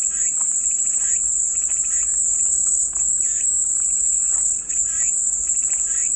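Cicadas singing in a steady, unbroken high-pitched buzz, with fainter short chirping calls scattered underneath.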